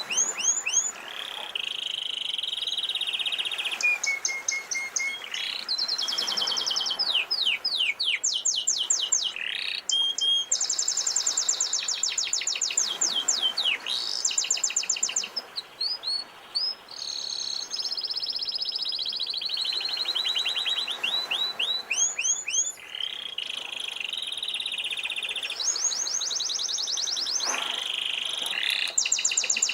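Domestic canary singing a long, continuous song of rapid trills and rolls: quick runs of repeated notes that change from phrase to phrase, over a faint steady wash of sea waves.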